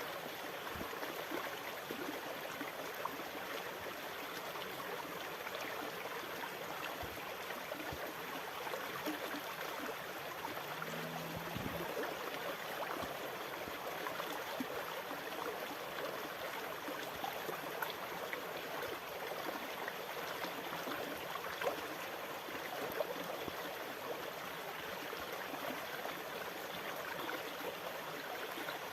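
Steady rushing, trickling water with no rise and fall of waves, and a brief low hum about eleven seconds in.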